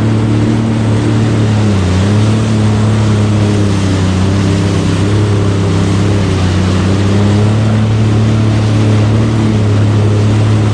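Jet ski engine running at a steady speed, with rushing water and wind noise over it; the engine pitch dips briefly about two seconds in.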